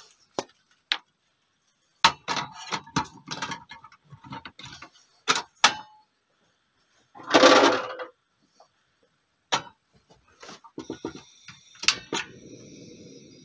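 Scattered clicks, knocks and light clinks of objects being handled, with a louder burst of noise lasting about a second near the middle and a steady low noise starting near the end.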